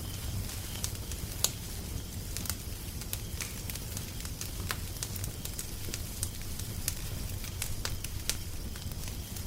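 Wood fire crackling, with frequent irregular sharp pops over a low steady rumble.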